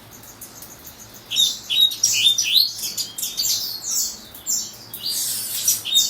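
Coleiro (double-collared seedeater) singing: a rapid run of short, high chirping notes that starts about a second in and keeps going.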